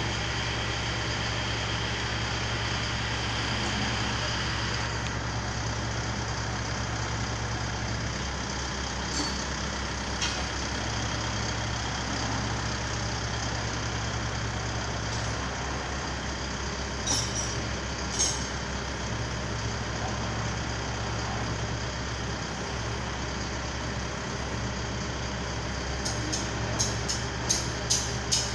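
Engine of a truck-mounted manlift running steadily with a low hum, as the lift is worked. A few sharp clicks come through, with a quick run of clicks near the end.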